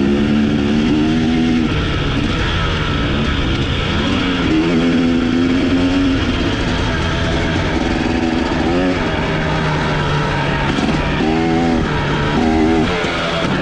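Dirt bike engine being ridden over rough ground, its revs rising and falling again and again with several quick throttle blips, over steady wind and rolling noise.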